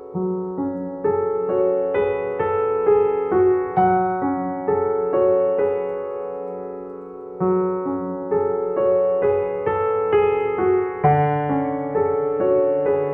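Background piano music: gentle notes struck at an unhurried pace, each ringing out and fading, in a calm repeating pattern.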